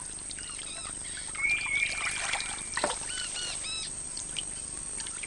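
Birds calling in the forest: many short, quick chirps repeating, with one held whistle about a second and a half in. There is a single short, sharp sound near three seconds.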